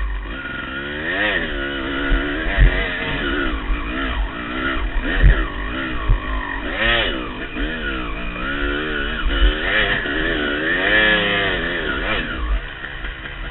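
Two-stroke 250 dirt bike engine revving hard and unevenly, its pitch climbing and dropping many times in quick succession as the throttle is worked on a steep climb, with a few low thumps.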